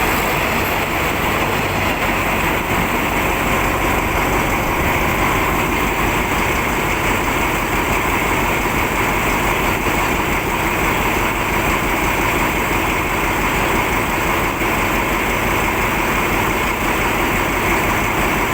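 Express passenger train running: a steady, unbroken rumble of engine and rail noise.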